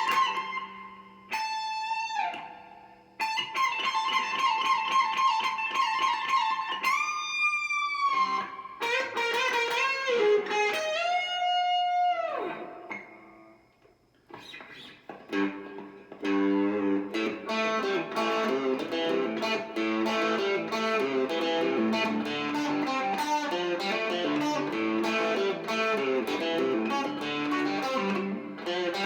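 Left-handed Squier 70s Classic Vibe Stratocaster electric guitar played through a Marshall MG30DFX amp: held lead notes with string bends and vibrato, a brief pause about halfway, then a fast, busy picked riff.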